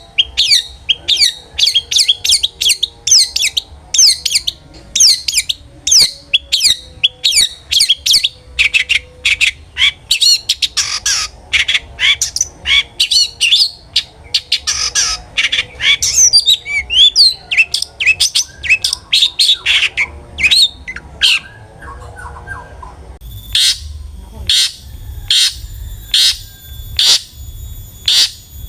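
Long-tailed shrike (cendet) singing a fast, harsh series of sharp repeated notes, several a second. About three-quarters of the way in, the notes slow to roughly one a second over a thin, steady, high ringing tone.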